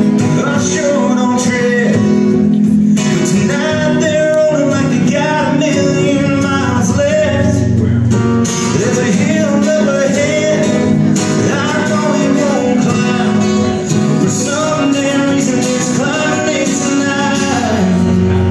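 A male singer and strummed acoustic guitar performing a country song.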